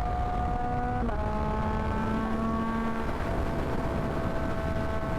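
Yamaha MT-09 inline-three engine running at steady cruising speed, its note dipping slightly about a second in and then holding. Heavy wind rumble on the helmet microphone runs underneath.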